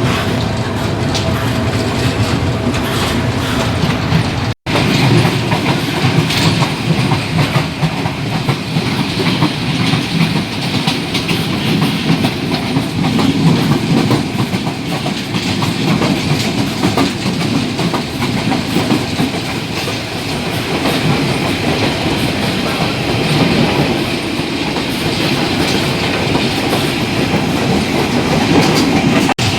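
Old passenger train running along the track, its wheels clattering over the rail joints, heard from on board. The sound drops out for an instant about four and a half seconds in.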